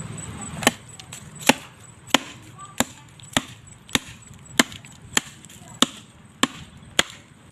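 A knife chopping in a steady rhythm: about eleven sharp chops, one every two-thirds of a second or so, starting just under a second in.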